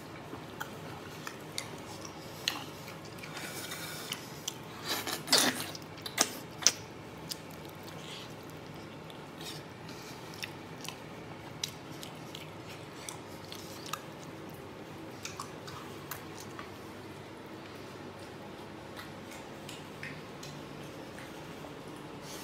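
A person chewing stewed beef close to the microphone: scattered wet mouth clicks and smacks, with a cluster of louder bites about five to seven seconds in.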